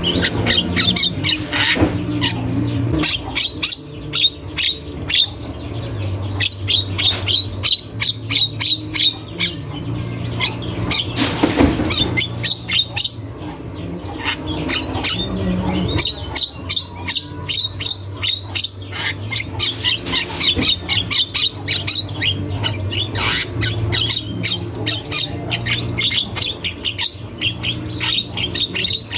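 Javan myna (jalak kebo) calling nonstop in fast runs of short, sharp notes, with brief pauses between runs.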